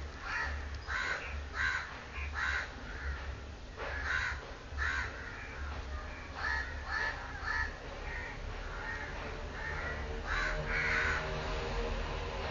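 Newborn Pomeranian-cross puppies crying, a run of short high squeals about two a second, easing off for a couple of seconds before a few louder cries near the end.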